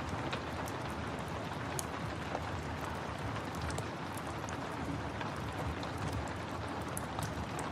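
Steady rain falling, with a wood fire crackling over it in scattered sharp pops and snaps.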